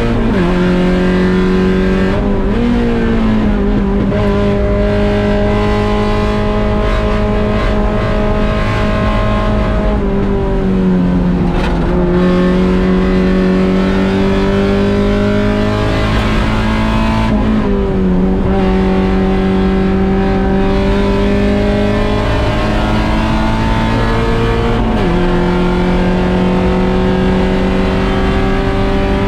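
1.6-litre Mazda Miata's four-cylinder engine under racing load, heard from on board: the engine note climbs slowly for several seconds at a time and then drops sharply at a gear change or lift, about four times.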